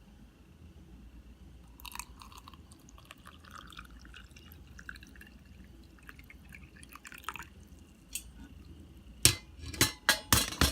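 Liquid trickling and dripping into a mug, then several sharp clinks of crockery near the end.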